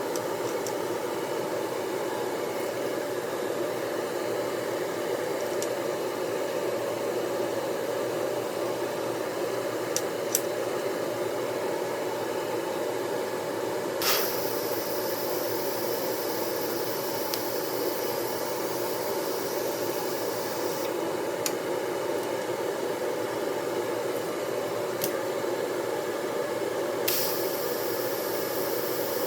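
Welding on a steel exhaust bracket: a steady hiss throughout, with the welding arc's high crackling hiss striking up about halfway, running for about seven seconds, cutting off, then starting again near the end. A few sharp clicks earlier on.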